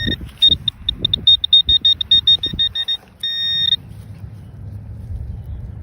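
Handheld metal-detecting pinpointer sounding over a target in loose dug soil: a high tone pulsing in rapid beeps, about seven a second, then a short steady tone that means it is right on the target. Soft thuds of dirt being handled come underneath.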